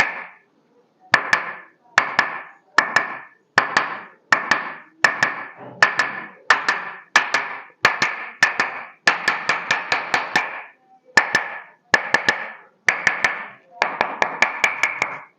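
Hands striking a patient's body in quick percussive massage strokes. Short groups of sharp slaps repeat in a steady rhythm, about one group every three quarters of a second.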